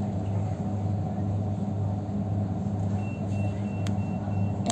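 Steady low rumble of a moving passenger train heard from inside the carriage. From about three seconds in, a faint high beep repeats several times.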